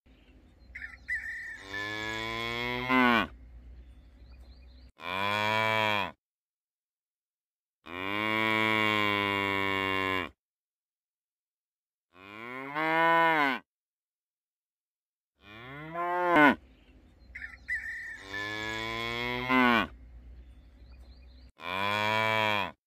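Cattle mooing: about seven separate long moos, some rising and then falling in pitch, with silent gaps between them.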